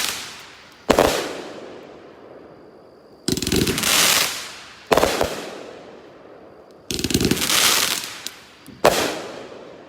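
Sky King 'Backyard King' consumer firework cake firing in three rounds. Each round is a noisy burst about a second long, followed about a second later by one sharp bang that rings out and fades.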